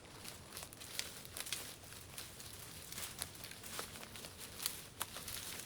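Irregular crackling and rustling of dry vegetation being handled, with scattered sharp snaps.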